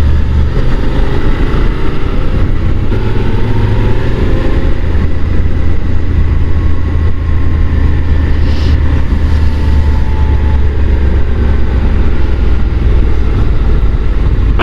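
A Honda NC750 DCT's parallel-twin engine running as the motorcycle is ridden, its note slowly rising and falling, under a heavy, steady low rumble of wind on the rider's microphone.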